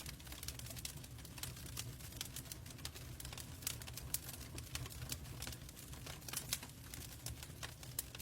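Log fire burning in a fireplace, crackling with irregular sharp snaps and pops over a low steady rumble.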